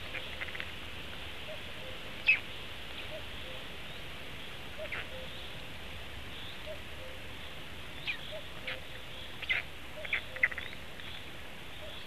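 Short, high bird chirps, about a dozen scattered single notes, with the loudest about two seconds in and a cluster near the end, over a steady background hiss.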